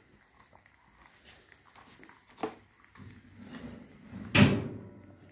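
Kitchen handling noises: a couple of light clicks, then a low shuffling from about three seconds in and one loud clunk, like a door or a heavy tray being shut or set down, a little past four seconds in.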